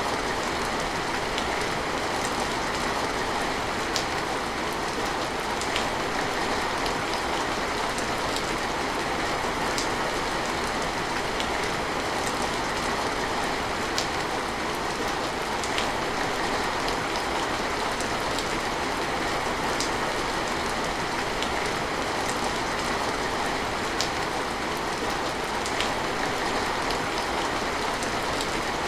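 Steady, heavy rain falling in an even hiss, with an occasional sharper drop tick standing out now and then.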